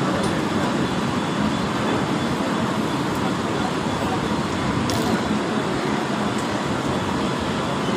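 Steady running noise of a Mumbai suburban EMU local train at speed, heard from inside the coach: an even rumble and rush, with one faint click about five seconds in.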